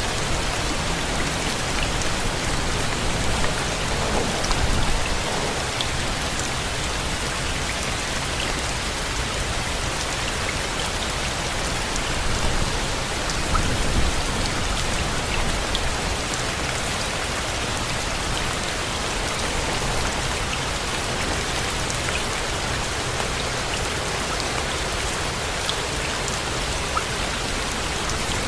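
Steady rain: a dense, even hiss flecked with sharp drip ticks, over a low rumble that swells slightly a few seconds in and again near the middle.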